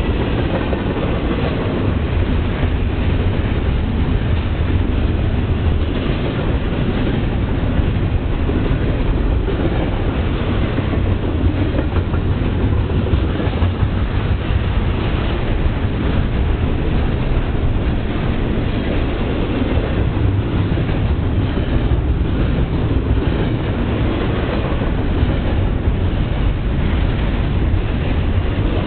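Cars of a CSX double-stack container train rolling past close by: a loud, steady rumble of steel wheels on rail, with the clack of wheels over rail joints.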